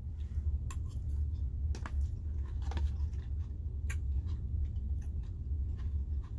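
Someone eating salad: crunchy chewing and sharp little clicks about once a second, over a steady low hum inside the truck cab.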